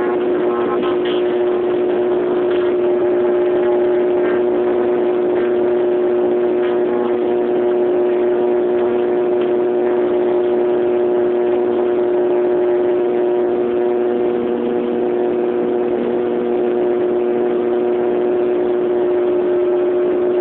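Passenger aircraft engines running steadily: a constant hum with several unchanging tones over a rushing noise.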